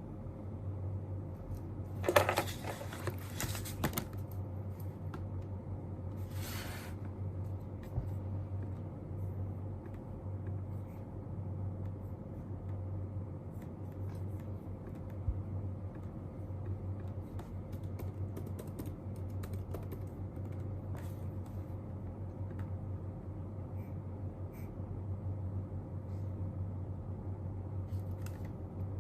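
Desk-study sounds: scattered light taps and clicks of someone working at a desk, with two brief rustles about two and seven seconds in, over a steady low hum.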